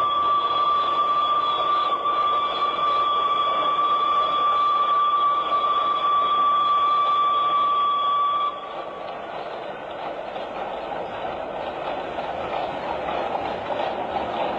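Steam locomotive whistle blowing one long steady note, which stops about eight and a half seconds in. After it comes the steady rumbling noise of the train running.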